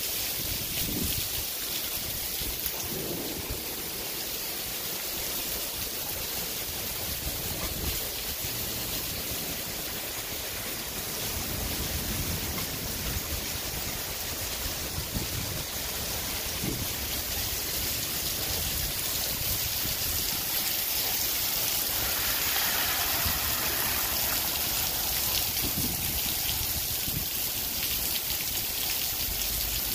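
Heavy rain falling steadily, with runoff dripping and running off a roof edge overhead; the rain grows a little louder in the last third.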